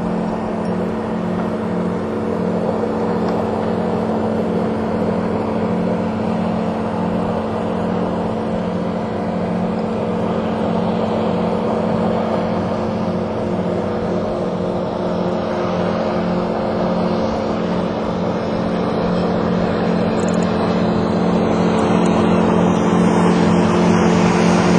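Boat's outboard motor running steadily, an even pitched hum with a regular low throb, growing a little louder near the end.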